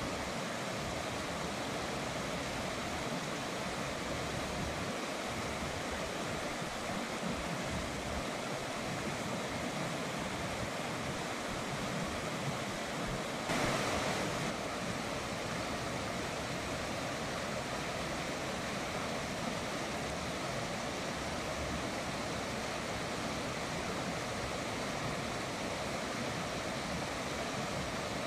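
River water flowing in a steady, even rush, with one brief louder surge for about a second near the middle.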